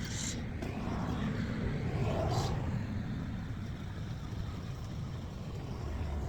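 Street noise heard from a moving bicycle: a steady low rumble of wind and road noise, with a vehicle passing by that swells and fades about two seconds in.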